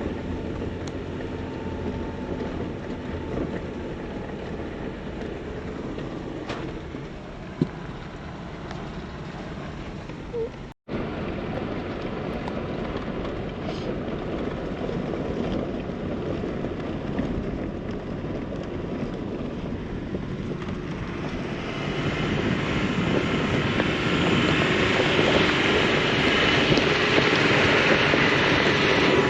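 Jeep driving along a rough dirt mountain trail: steady engine, tyre and wind noise. It cuts out for a moment about eleven seconds in, then grows louder and harsher near the end.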